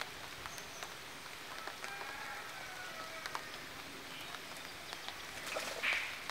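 Light rain pattering on a pond, with scattered small drop ticks; a bird calls briefly about two seconds in, and a short louder rush of noise comes near the end.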